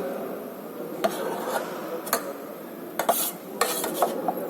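A spoon clinking and scraping against a plate while eating: several light clicks and a couple of short scrapes, over low room murmur.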